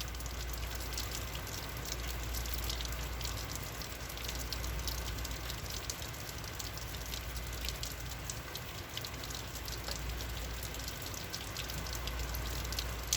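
Heavy rain falling steadily, a dense patter of individual drops over a constant wash of rain noise.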